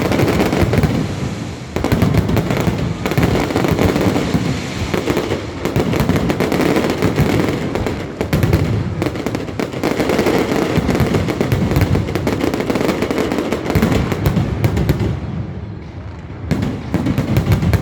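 Aerial fireworks display: a dense, continuous barrage of bangs and crackling bursts. It eases briefly about fifteen seconds in, then the bursts pick up again near the end.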